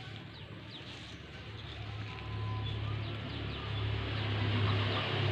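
Long-tailed shrike (cendet) giving short, high chirps in the first second or so, then a low hum builds and grows louder towards the end.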